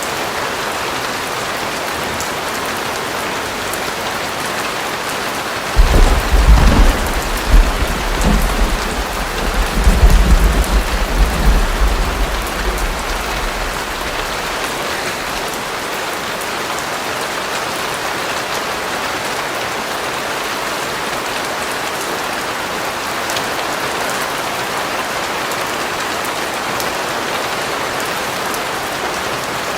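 Steady rain falling on a surface, with a rumble of thunder that starts suddenly about six seconds in, rolls in several surges for about eight seconds and fades back into the rain.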